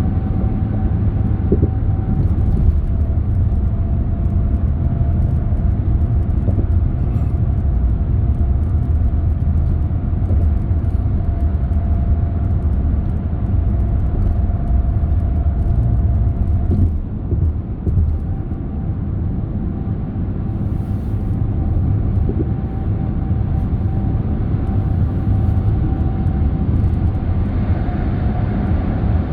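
A car driving along a road: a steady low rumble of engine and tyre noise with a faint steady whine, easing briefly a little past the middle.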